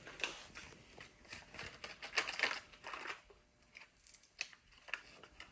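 Irregular metal clicks and rattles from handling bolts and brake parts at a car's wheel hub, with a busier patch of clatter about two seconds in.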